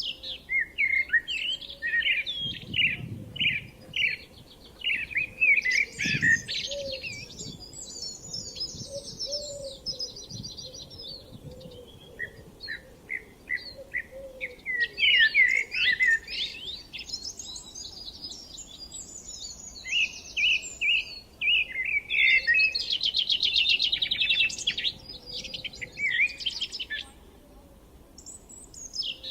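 Songbirds singing in overlapping bouts of quick chirps and rapid trills, with short pauses between songs.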